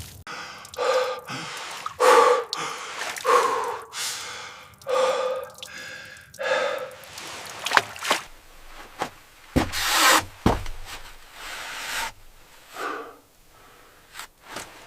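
A man breathing hard, about five loud breaths a second or so apart. A few sharp knocks follow near the middle.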